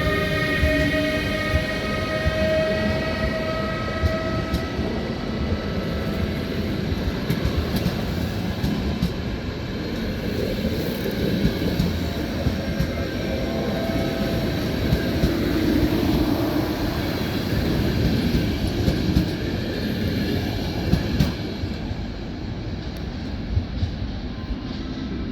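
A train passing. A held horn note fades away in the first few seconds, then the train rumbles steadily by with scattered clicks from the wheels.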